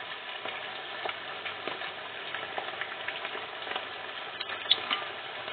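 Keftedes (Greek meatballs) frying in a deep pot of oil over medium heat: a steady sizzle and crackle, with a few sharp clicks about four and a half seconds in.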